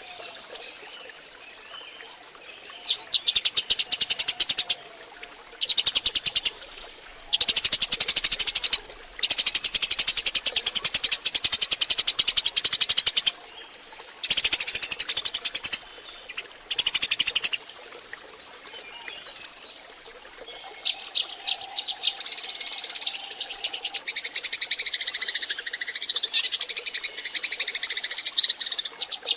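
Eurasian tree sparrows chirping in fast, dense runs that stop and start several times, with a lull in the middle, then a continuous chattering chorus of several birds for the last third.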